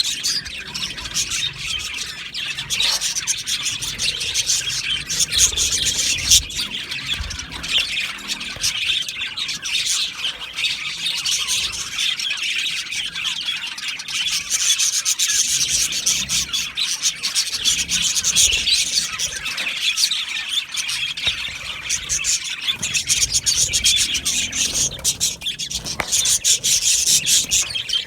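A flock of budgerigars chattering and chirping together, a dense, unbroken mix of warbles and short squawks.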